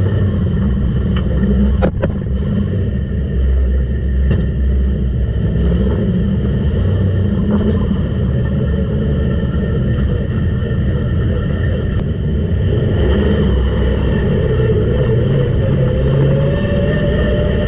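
Street stock race car engine running hard during a practice run, a steady loud rumble whose pitch rises near the end.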